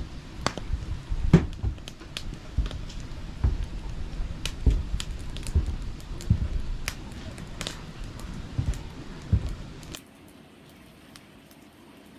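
Irregular sharp clicks and knocks with some low thumps, stopping suddenly about ten seconds in, leaving faint steady background noise.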